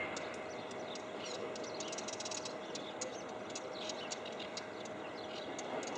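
Many short, high bird chirps scattered throughout, over a steady background hiss with a faint constant hum.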